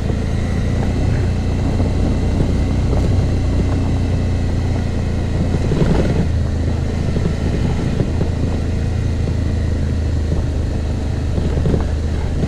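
Suzuki V-Strom motorcycle engine running at a steady cruise on a bumpy dirt trail, mixed with wind and road noise, with a brief knock from a bump about six seconds in.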